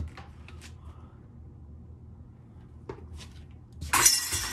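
Disc golf putt striking the metal chains of a portable basket about four seconds in: a sudden loud jangle of chains that rings on briefly, after a few faint clicks of handling.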